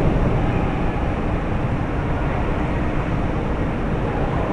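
Steady low rumble of a moving vehicle, with a faint even hum over it.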